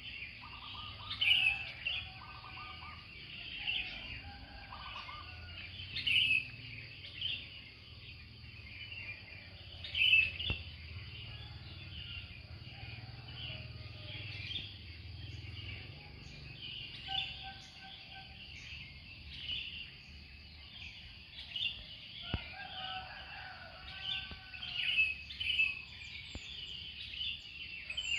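Several birds chirping and singing at once, with many quick high chirps and trills and a few lower whistled calls, over a low steady rumble.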